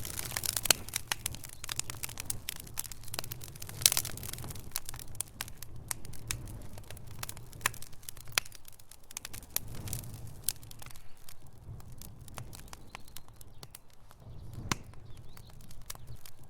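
Wood fire in a fireplace crackling: irregular sharp pops and snaps from burning logs over a low rumble, with a couple of louder pops about one and four seconds in and sparser crackles toward the end.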